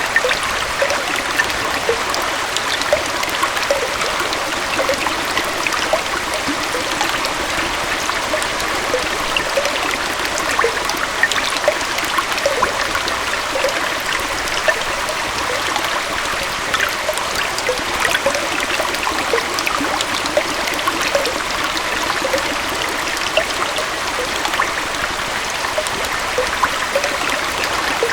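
Shallow stream splashing and trickling over rocks at a small waterfall: a steady rush of water with many small bubbling, gurgling splashes.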